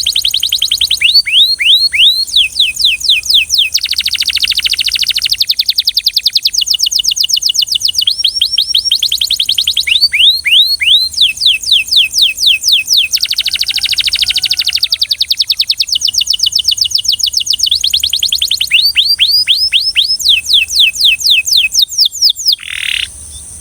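Belgian canary singing: fast runs of repeated descending whistled notes, several per second, alternating with dense rolling trills, in phrases of a few seconds each. The song stops shortly before the end.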